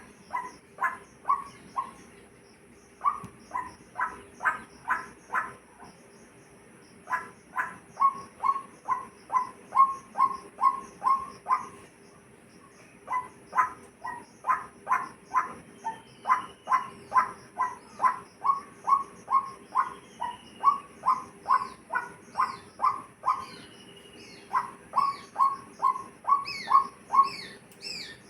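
A bird calling one short note over and over, about two to three a second, in runs of several seconds with brief pauses between them. Fainter, higher chirps from other birds and a steady high insect-like whine sound behind it.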